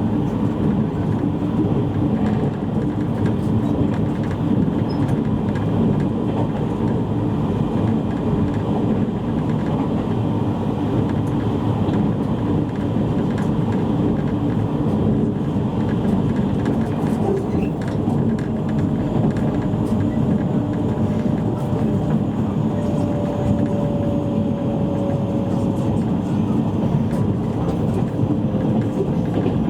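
Steady running noise inside a JR East E653 series electric train car underway, a low rumble of wheels on rail. In the second half a faint whine slowly falls in pitch.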